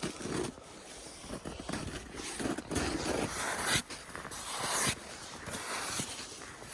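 Handling noise: a string of separate rustling and scraping sounds, with no engine running.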